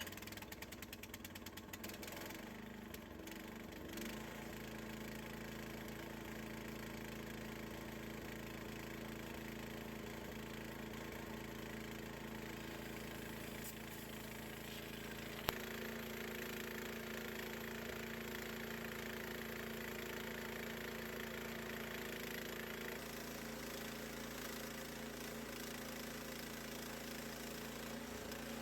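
Gasoline engine of a bandsaw sawmill running steadily, with a fast flutter in the first couple of seconds as it settles and one sharp click about halfway through.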